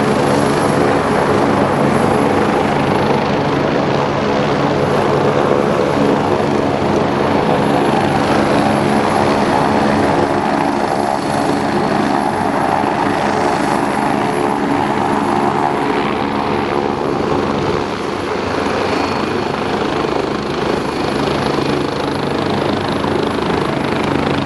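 Helicopter running close by, a loud steady drone of rotor and engine.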